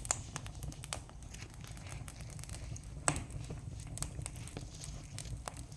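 Campfire crackling, with irregular sharp pops of burning wood, the loudest about three seconds in, over a low steady rumble.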